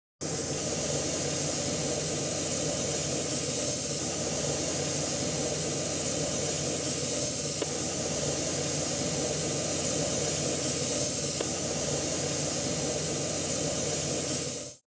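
Compressed-air gun hissing steadily with an even, unbroken rush of air.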